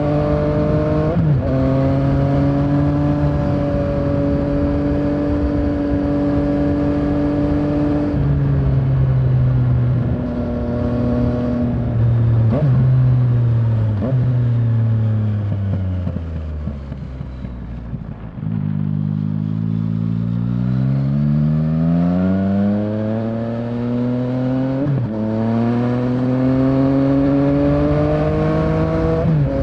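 Yamaha Tracer 900's three-cylinder engine running on the road: steady revs for the first several seconds with short breaks in pitch at gear changes, revs falling as the bike slows around the middle, then climbing again under acceleration up to an upshift near the end. Wind rush runs under the engine.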